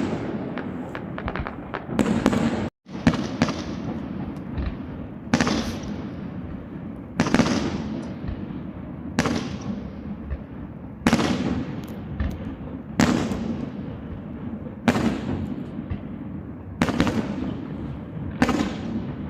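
Aerial firework shells bursting in a steady sequence, one boom about every two seconds, each dying away in a rumbling echo. Crackling pops run through the first few seconds, and the sound cuts out for an instant about three seconds in.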